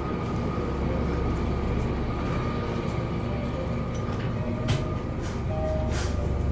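Steady low hum of a convenience store's ambience, with a faint steady tone and a few light clicks and knocks.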